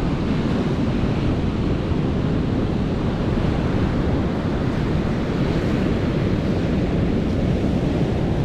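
Ocean surf breaking on a sandy beach: a steady, continuous rush of waves, with wind buffeting the microphone.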